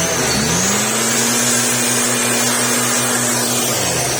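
Small petrol engine of a motorized blower revving up about half a second in and holding at high speed, then dropping back just before the end. The blower is clearing sandstorm dust off chili plants.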